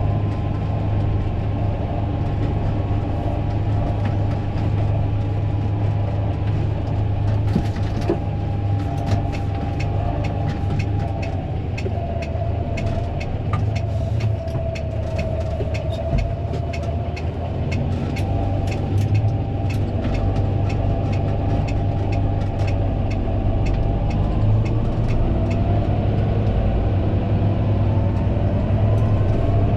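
Fendt 936 Vario tractor's six-cylinder diesel engine running steadily under a steady whine. From about 8 s to about 24 s a rapid rattle runs over it, and near the end the whine rises in pitch.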